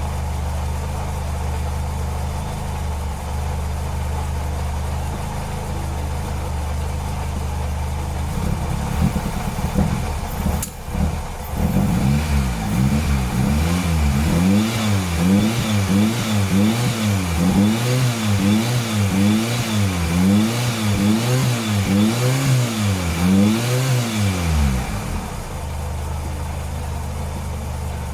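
Mitsubishi Celeste's engine idling steadily, then revved up and back down about eight or nine times in a regular rhythm, roughly one rev every second and a half, before settling back to idle.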